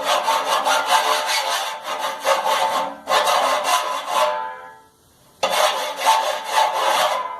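Hand file rasping with fast back-and-forth strokes on a dryer edge that has worn sharp, blunting it; the part rings faintly under the strokes. The strokes stop for about a second near the middle, then start again.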